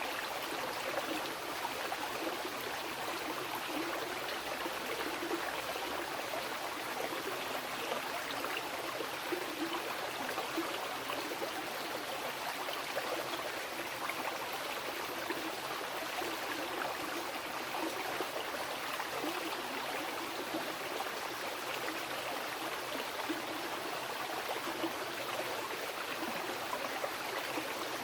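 Mountain river flowing over rocks: a steady rush of water with small splashes and gurgles flickering through it.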